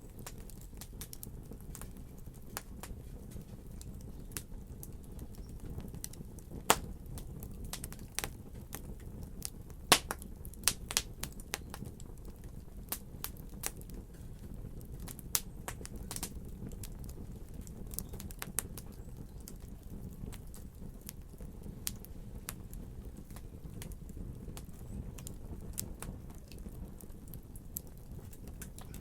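Fire crackling in a fireplace: irregular sharp pops and snaps over a steady low rumble, the loudest pops about seven and ten seconds in.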